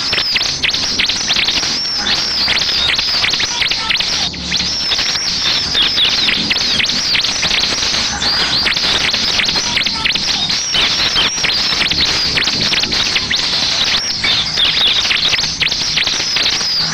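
Bar-winged prinia (ciblek) song: a rapid, unbroken string of high, sharp chirps and trills, played as a lure to get other ciblek to answer.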